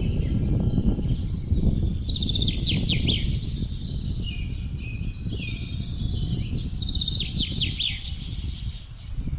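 Songbirds singing over a steady low rush of wind. A quick trilled phrase of rapid falling notes comes twice, about two seconds in and again about seven seconds in, with softer chirps between.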